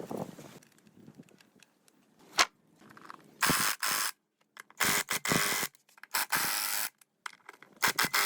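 A single click, then four short hissing bursts from a tool, each under a second long and cut off sharply.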